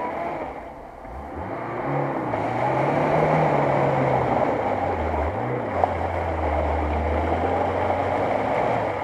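Lada Niva's four-cylinder petrol engine revving hard as the car churns in deep mud, with a loud noisy rush of spinning wheels and splashing mud. The revs climb about a second and a half in, drop briefly around the middle, then rise again and hold.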